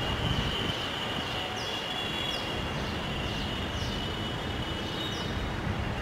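Steady rushing background noise with a thin steady high whine, over which a small bird gives a series of short, falling high-pitched chirps, about two a second.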